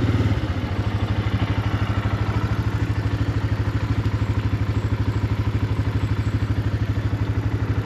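Small off-road vehicle engine running at a steady idle, with a fast, even chugging pulse.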